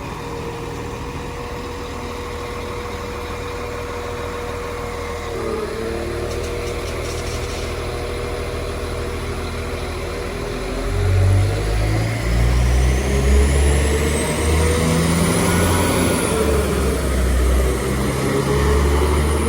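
Class 195 diesel multiple unit running at the platform with a steady hum, then its diesel engines throttling up about halfway through as it pulls away: a loud, pulsing low rumble and a whine that rises in pitch.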